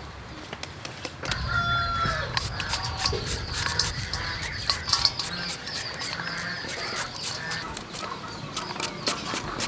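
Chickens clucking, with a rooster's crow, over a run of quick sharp clicks and taps that start about a second and a half in.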